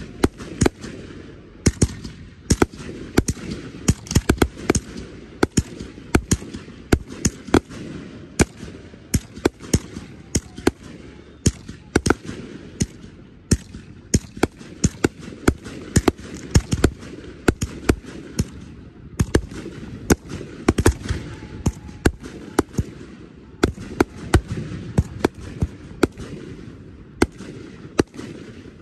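Aerial fireworks shells bursting in a rapid, uneven string of sharp bangs, several a second, like a consumer fireworks show or cake going off.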